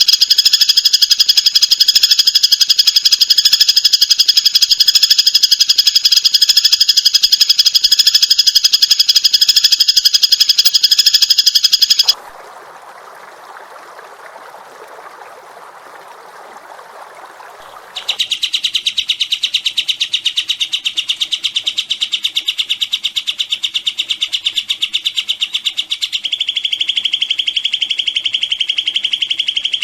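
Recorded songbird calls: a loud, very fast, high-pitched trill for about twelve seconds, then a quieter hissing stretch for about six seconds. After that comes another rapid trill, lower in pitch, which changes slightly near the end.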